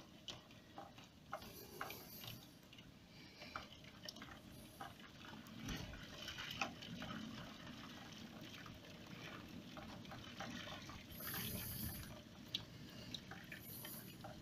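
Heavy rain falling, with scattered drips and taps, heard from indoors behind a window.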